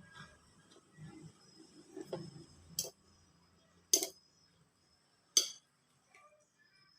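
Eating noises from a bowl of noodles: soft chewing sounds early on, then three sharp clinks of a utensil against the bowl, spaced about a second apart.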